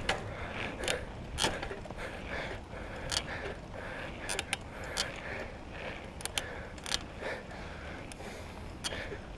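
Bicycle rolling along, its freewheel and chain clicking and rattling at irregular moments over a steady low rumble of wind and road.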